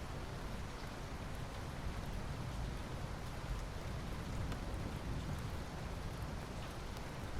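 Steady rain falling, with a constant low rumble under the hiss and faint scattered drop ticks.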